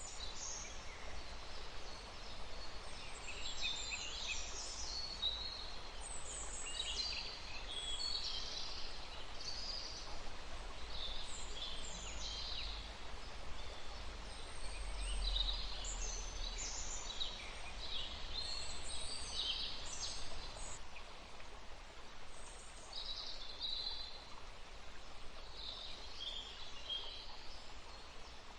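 Several small birds chirping and calling over one another in quick, short phrases, with a low rumble underneath.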